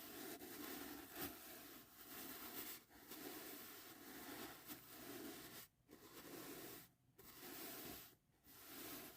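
Soft brush strokes rubbing and swishing steadily, with three short pauses between strokes in the second half.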